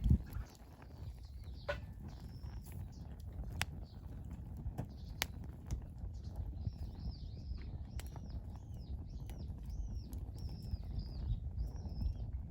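Wood campfire crackling with scattered sharp pops over a low steady rumble, while a bird calls in a quick series of repeated high notes through the second half.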